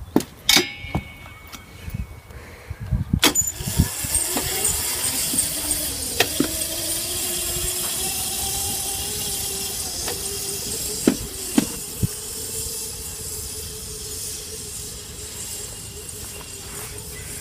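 A kid's dirt bike pulls away about three seconds in, its motor whine rising in pitch as it gathers speed and then holding steady. There are a few sharp knocks along the way.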